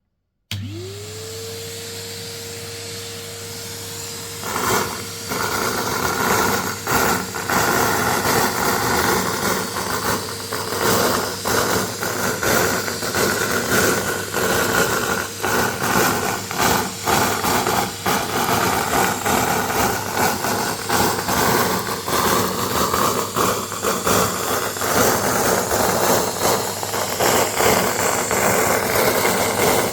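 Vacuum cleaner switched on, its motor whining up to speed within about a second and running steadily. About four seconds later it turns louder and rougher as it sucks up confetti, with many small clicks and rattles from the pieces going up the nozzle.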